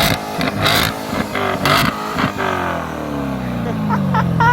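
2019 Corvette Grand Sport's 6.2-litre V8 revved through its quad-tip exhaust: it crackles and pops for the first couple of seconds, then the revs fall away slowly. A short high-pitched falling call sounds near the end.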